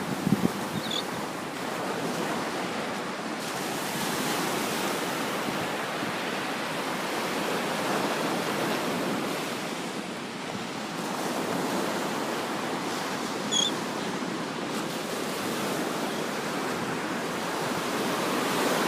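Ocean surf washing steadily on the beach, with some wind on the microphone. A few brief, faint high bird calls come about a second in and again about two-thirds of the way through.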